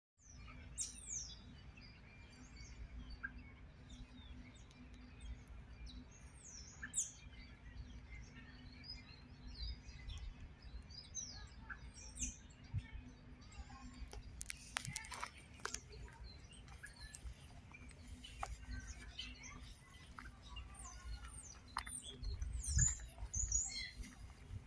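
Several small birds chirping with short, high calls scattered throughout, over a low rumble. A few sharp clicks come about two-thirds of the way in.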